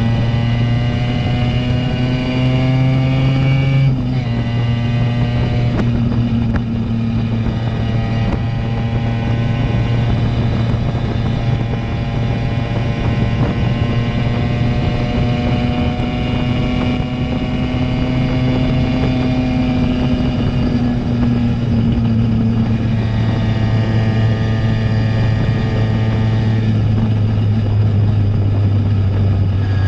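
Simson moped's single-cylinder two-stroke engine running under way through an aftermarket JW 85G+ exhaust. Its note drops suddenly about four seconds in and again near the end, and rises and falls slowly in between.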